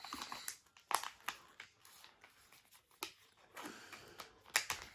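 Sheet of paper being folded and creased by hand, with a scatter of short crinkling rustles.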